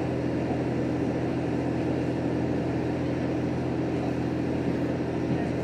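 Inside a JR Hokkaido H100 diesel-electric railcar under way: a steady drone from the engine and running gear with a low, even hum, over continuous wheel-on-rail noise.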